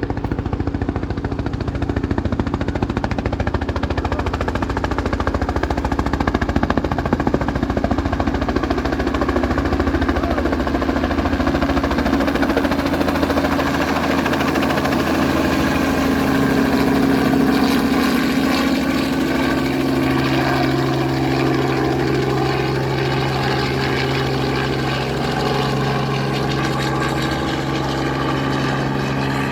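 Helicopter rotor and engine running, loud and continuous. A fast low chop in the first half gives way to a steadier hum with a clear low tone in the second half.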